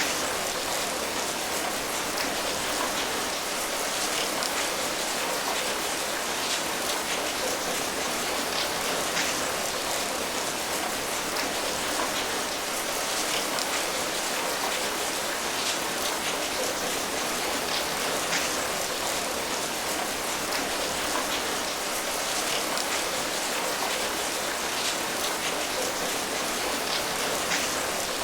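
Steady rain falling, an even patter with scattered individual drops ticking through it.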